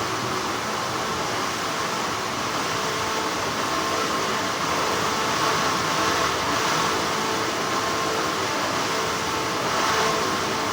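Steady hum of textile factory machinery: an even, unbroken noise with a few faint steady tones running through it, swelling slightly a couple of times.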